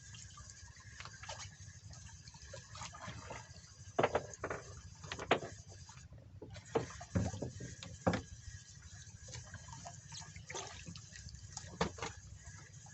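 Seawater sloshing and splashing in irregular spurts, with a few sharper, louder splashes among them.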